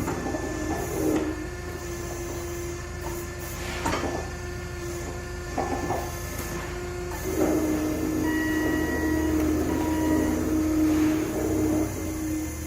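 Firewood production machinery running with a steady humming tone and low rumble, with a few sharp knocks of wood. It gets louder about seven seconds in.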